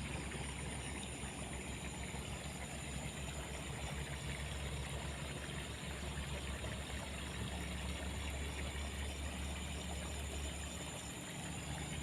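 Steady outdoor background ambience: a constant low rumble with an even hiss over it, and no single event standing out.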